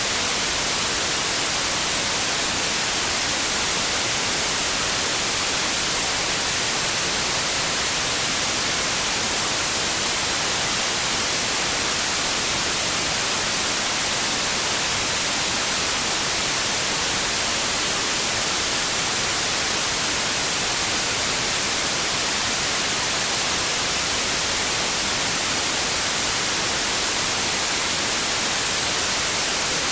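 White noise: a steady, unchanging hiss, brightest in the treble.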